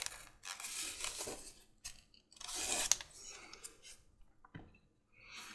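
Leather strap being sliced with a strap cutter, two drawn cuts a second or so apart, followed by a few light clicks of tool handling.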